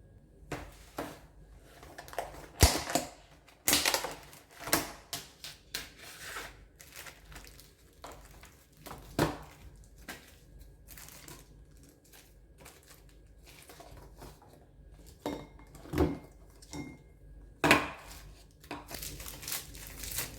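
Irregular clicks, knocks and crinkling from objects being handled and set down, with a few sharper knocks, the loudest about two and a half seconds in and again near the end.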